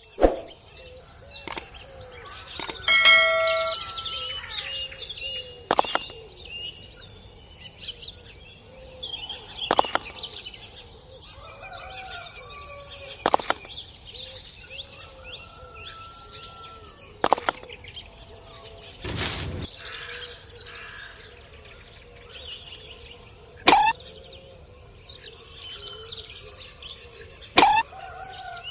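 Small birds chirping, broken every few seconds by sharp clicks or knocks, with a short bell-like ding about three seconds in.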